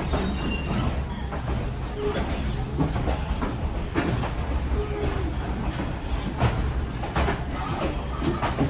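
Passenger train rolling along the track: a steady low rumble of the cars with the clickety-clack of wheels over the rails and a few brief squeals.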